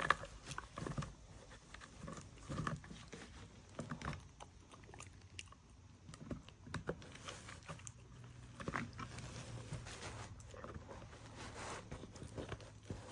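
A dog chewing and biting its food, with irregular sharp crunches and clicks of its teeth.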